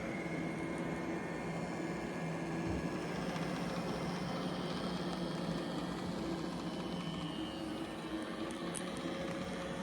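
iRobot Roomba J7+ robot vacuum running while it cleans a rug: a steady whir of its suction motor and brushes with a constant hum.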